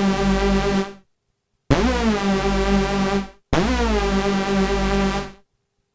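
Korg NTS-1 synthesizer playing the Hoovic oscillator's 'hoover' sound: fat, detuned notes with a fast pulse-width wobble and chorus. A held note ends about a second in. Then two notes follow, each opening with a quick swoop up and back down in pitch from the oscillator's pitch envelope.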